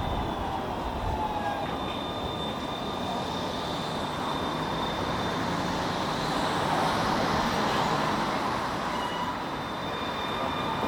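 A tram running on its rails: a steady running rumble with thin, high-pitched whining and squealing tones from the wheels on the track.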